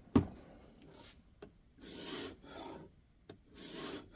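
A diamond sharpening plate stroked along an N690 steel knife edge in a guided clamp sharpening system: a sharp knock near the start, then three scraping strokes in the second half, each about half a second long.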